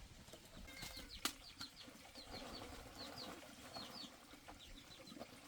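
Faint, repeated short high chirps from small birds, several a second, with one sharp click about a second in.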